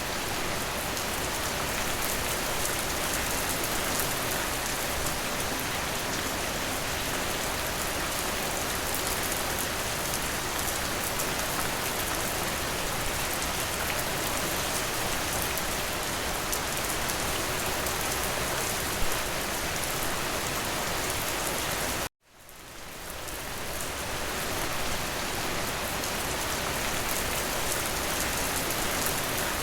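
Steady rain falling on a window, an even patter. About two-thirds of the way through the rain cuts out abruptly, then fades back in over a couple of seconds, as at the join of a looped recording.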